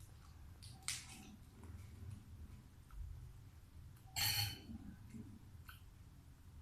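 Crisp crunches and rustles of green vegetables being bitten and chewed, with a short one about a second in and a louder one about four seconds in, and a few faint ticks between.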